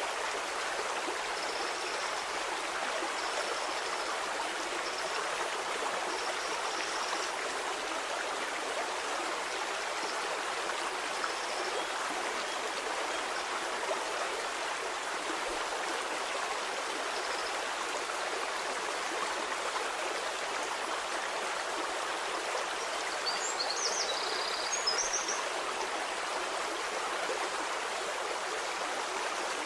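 A stream of running water flowing steadily, an even rush with no pauses. Faint short high chirps sound over it several times in the first few seconds, with a brief cluster of them a little after the middle.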